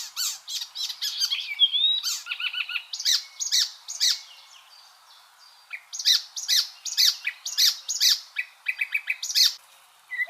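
Icterine warbler singing: a fast, varied run of sharp chirps, quick repeated notes and short whistles. It breaks off for about two seconds in the middle, then starts again.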